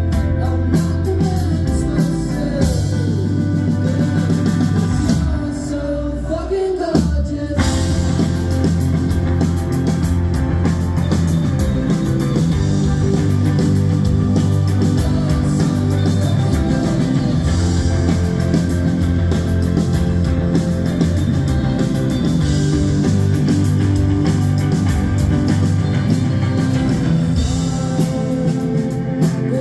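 Live indie rock band playing, with guitars, bass, drums and singing. The music thins out briefly about six seconds in, then the full band comes back in.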